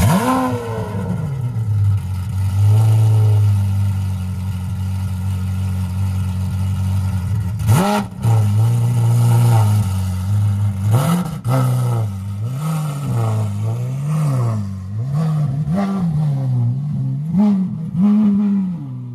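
Lamborghini Aventador's V12, fitted with an aftermarket exhaust, firing up with a loud flare and settling into a steady idle. About 8 seconds in it gives one sharp rev, then from about 12 seconds on a string of quick throttle blips, roughly one a second.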